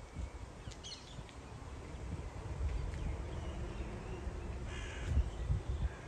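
Outdoor background with a steady low rumble, a brief high bird chirp about a second in, and a harsh, cawing bird call near the end.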